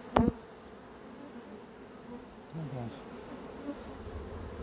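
Honeybees buzzing in a steady hum around an open hive, with one buzz dropping in pitch a little over halfway through. A quick, sharp double knock sounds just after the start.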